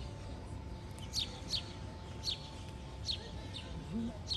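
A small bird chirping over and over: short, high chirps that each slide downward, repeating every half second to a second from about a second in.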